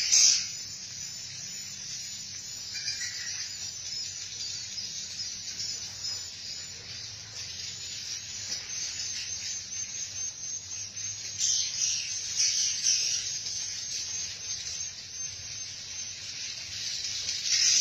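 Swiftlets twittering, a dense continuous chatter of high chirps that swells louder about two thirds of the way through and again near the end.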